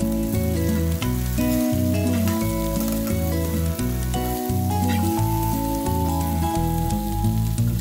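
Sliced okra and onion sizzling in hot oil as they are stirred in a pan, under background instrumental music with a steady bass line.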